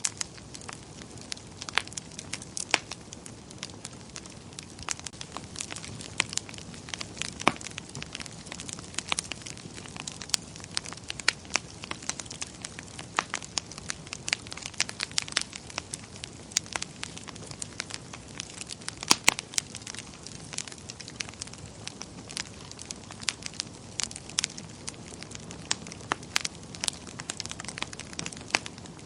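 Wood fire burning in a fireplace, crackling with many sharp, irregular pops over a steady low hiss.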